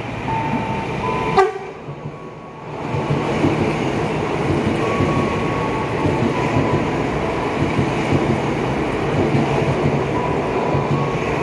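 Soekarno-Hatta airport rail link electric train running past the platform, a steady rumble of wheels on the rails that swells about three seconds in and holds. Near the start a short steady horn note sounds, followed by a sharp click.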